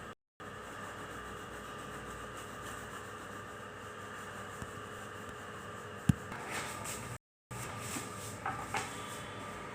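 Steady background hum with a sharp click about six seconds in, followed by a few brief, faint rubbing sounds.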